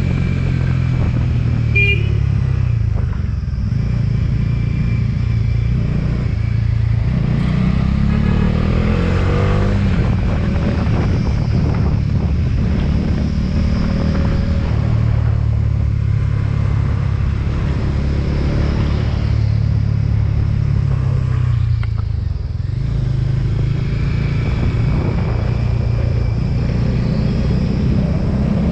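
Motorcycle engine running while riding, its pitch rising and falling several times with the throttle and gear changes.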